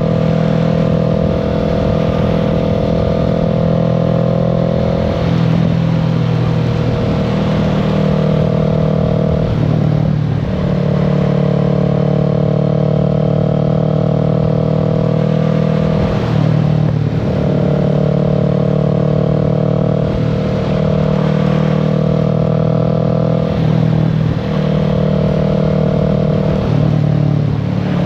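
Kawasaki Z650's parallel-twin engine running while riding, a steady engine note with short dips about every four to six seconds where the note breaks and settles at a slightly different pitch.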